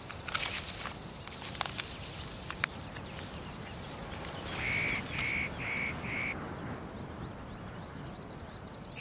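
Wild birds calling in a forest: about halfway through, one bird gives four short, evenly spaced calls, about two a second, followed by a fast high trill.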